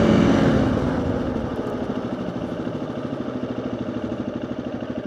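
Motorcycle engine heard through a microphone inside the rider's helmet. The revs drop off over the first couple of seconds, then it settles to an even low-rev pulsing beat.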